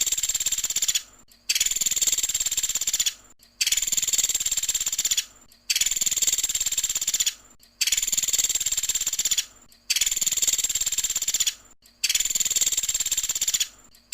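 Pelatuk sampit woodpecker calling: a high, rapid rattling trill about a second and a half long. It repeats every two seconds or so, with short pauses between.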